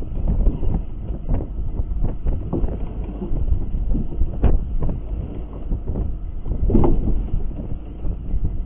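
Wind buffeting the microphone on a small boat at sea, over a steady low rumble, with a few knocks, the sharpest about four and a half seconds in.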